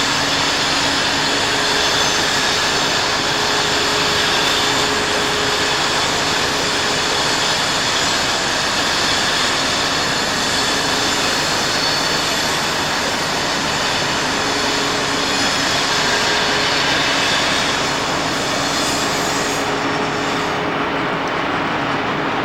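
Brush Class 60 diesel locomotive with its Mirrlees engine running under power: a loud, steady engine drone with a few held whining tones. The highest hiss drops away near the end.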